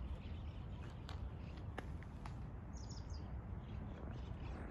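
Small birds chirping a few times, brief high calls around the middle, over a steady low outdoor rumble.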